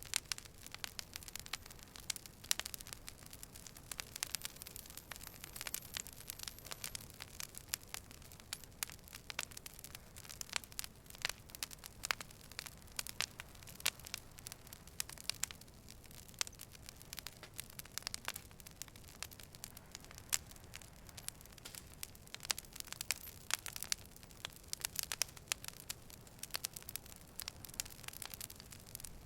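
Wood campfire crackling, with irregular sharp pops and snaps over a low steady hiss of burning.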